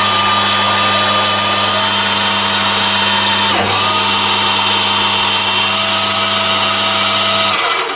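Chinese mini lathe running under power, its motor and gear train making a steady whine over a low hum, with a brief hitch about three and a half seconds in. It stops shortly before the end.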